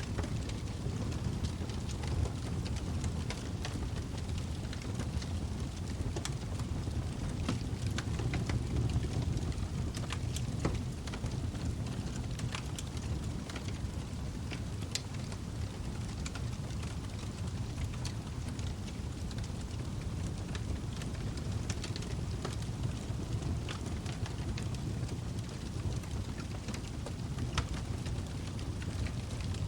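Log fire burning in a fireplace: a steady low rumble of flames with frequent, irregular sharp crackles and pops.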